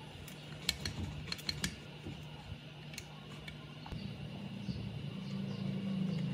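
A few sharp light clicks and taps in the first half, over a steady low hum that grows louder about four seconds in.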